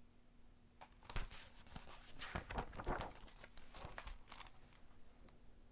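Paper pages of a picture book being handled and turned: a run of short, irregular rustles starting about a second in and lasting a few seconds.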